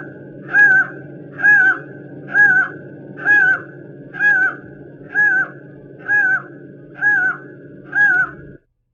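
A bird repeating a short, arched, clear note about once a second, over a steady low background noise; the recording cuts off abruptly near the end.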